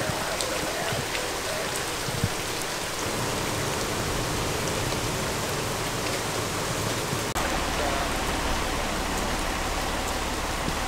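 Heavy rain pouring down steadily, spattering on surfaces. A low steady rumble joins about seven seconds in.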